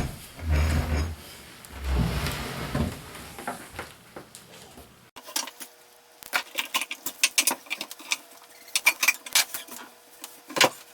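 Wooden oak chair being handled and moved: a few dull thumps at first, then a run of short, irregular knocks and clicks in the second half.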